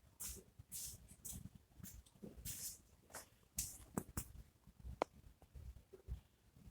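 Wood fire crackling: irregular short hissing crackles with a few sharp pops, the loudest about four and five seconds in.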